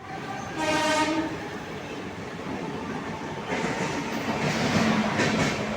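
Trains running through a station: a brief horn blast about half a second in, over rumbling running noise. From about halfway, wheels clatter over rail joints in a rhythm, a little louder.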